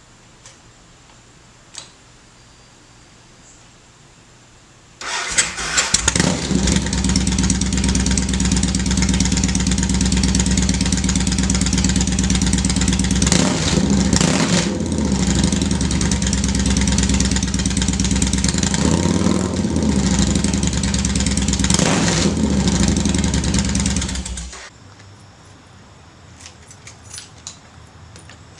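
Yamaha Road Star Warrior 1700's V-twin running through a Cobra Swept exhaust. It starts about five seconds in, idles with a few quick throttle blips, and is shut off near the end.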